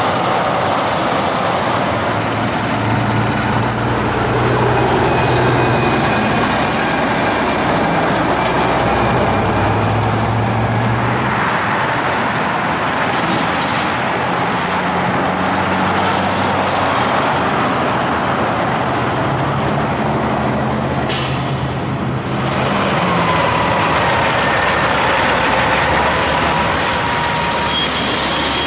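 Heavy highway traffic with semi-trucks passing one after another: a steady rush of tyre and road noise under low diesel engine drone that swells and fades with each pass, with a few faint whines on top. A brief hiss comes about three-quarters of the way through.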